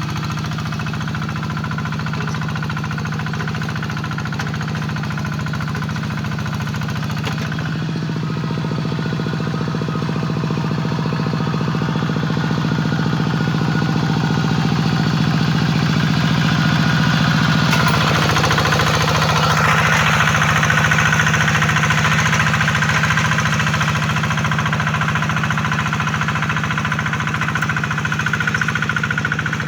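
Two-wheeled hand tractor's single-cylinder diesel engine running steadily under load while plowing a wet rice paddy. Its note shifts about a quarter of the way in and again a little past halfway.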